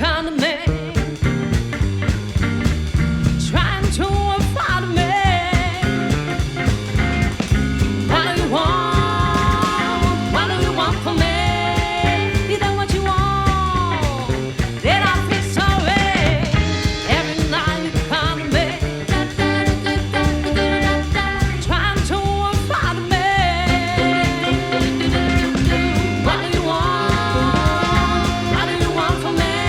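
A live band playing a groove over drums and bass, with a melodic lead line on top that bends in pitch and slides down in one long fall about halfway through.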